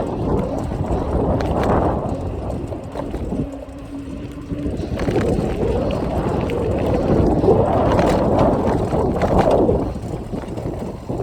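Wind rushing over a phone's microphone while a cheap mountain bike is ridden, with scattered rattling clicks from the loose-sounding chain and the phone itself. The rush eases for a second or so about four seconds in.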